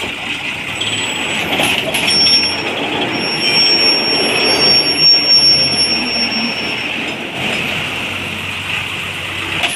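Ashok Leyland Stallion 4×4 truck's diesel engine running under way, a steady heavy-vehicle noise, with a thin high whine for a few seconds in the middle.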